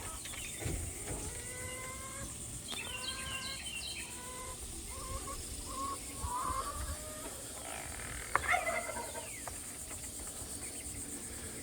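Domestic poultry clucking and calling in scattered short calls, with a single sharp knock about eight seconds in, over a steady high insect hum.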